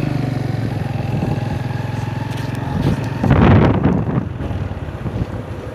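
Motorcycle engine running steadily on the move, with gusting wind buffeting the microphone from about three seconds in.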